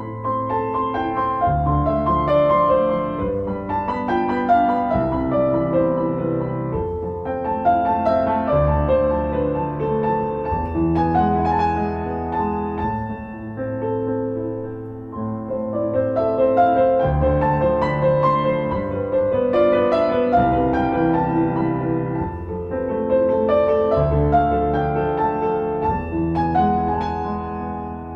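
Piano playing a passacaglia: runs of notes falling and rising over a bass line that moves in a repeating pattern.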